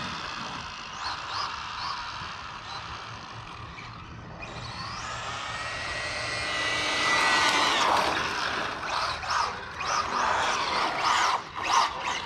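Electric RC truck with a Castle brushless motor on a 3S battery, running: a high whine that fades as the truck moves away and builds again as it comes back, then a run of short throttle bursts in the last few seconds.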